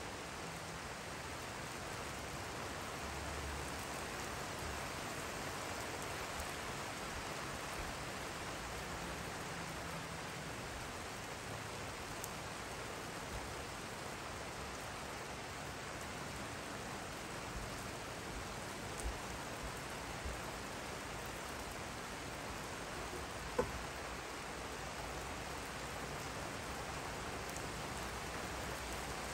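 Steady rain falling, an even hiss of drops on the lawn and wet wooden deck, with an occasional faint tick of a single drop; one sharper tick comes about three-quarters of the way through.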